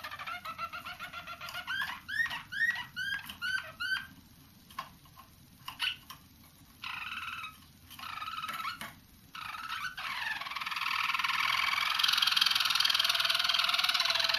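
Young roller canaries singing, working out new song tours. A run of repeated arching whistled notes about three a second, then a broken stretch of short notes and pauses, then from about ten seconds in a continuous rolling trill.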